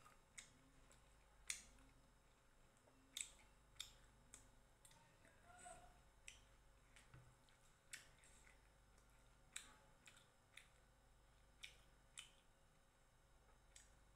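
Faint eating sounds: about a dozen short, sharp mouth clicks and lip smacks, irregularly spaced, while chewing roti and chicken curry.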